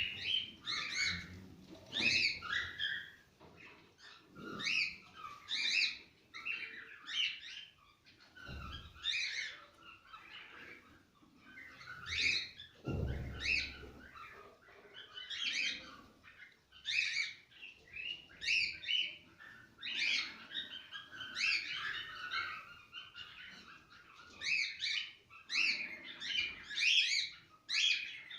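Cockatiels chirping and warbling in short, irregular phrases, the song meant to stimulate pairs to breed. Two dull low thumps come about a third and halfway through.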